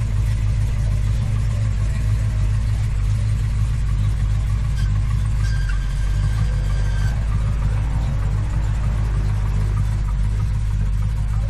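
A car engine idling close by: a steady low rumble that holds even throughout.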